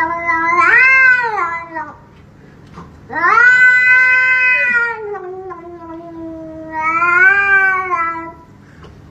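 A domestic cat yowling: long, drawn-out wailing calls that rise and fall in pitch, three of them with short pauses between.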